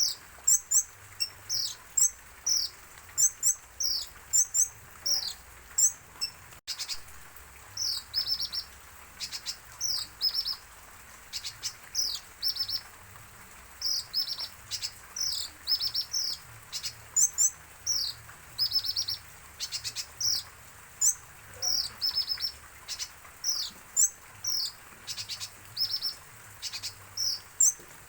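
A konin bird chirping busily: short high notes that drop in pitch, and quick rattled strings of notes, several every second.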